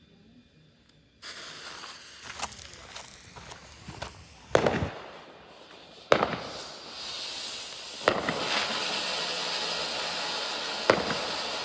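Jr Snow Cone ground fountain firework catching about a second in and spraying sparks with a steady hiss. Four sharp cracks go off during the burn, and the hiss grows louder past the middle.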